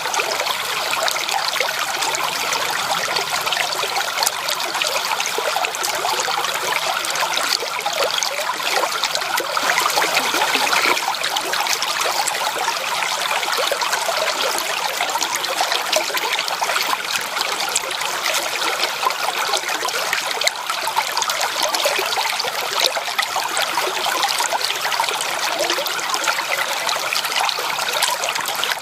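Flowing stream water, a steady splashing and trickling with little deep rumble.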